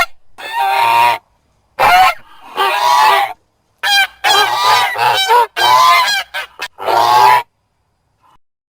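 Goose honking, a rapid run of loud, harsh honks for about seven seconds that then stops.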